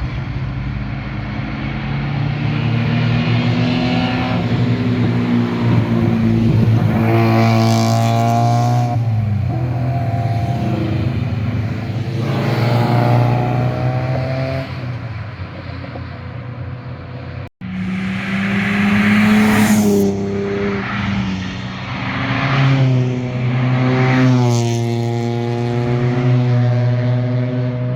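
Performance cars driving past one after another, engines revving up and down through the gears with the exhaust pitch rising and falling on each pass, over a steady low engine drone. The sound drops out for an instant about two-thirds of the way through.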